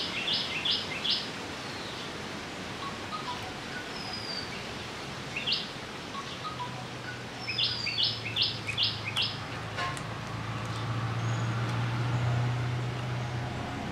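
A bird singing quick series of short, clipped high notes: the tail of one series at the start, a lone note, then a full series of about five notes just past halfway. Behind it, steady outdoor background noise, and from about halfway a low engine hum that grows louder.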